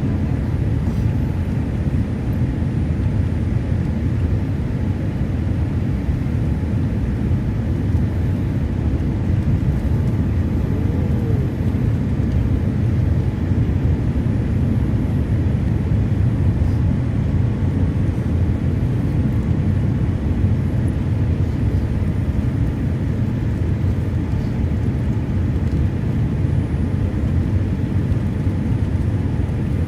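Steady low cabin noise of a jet airliner in flight: engine and airflow noise, heard from inside the passenger cabin.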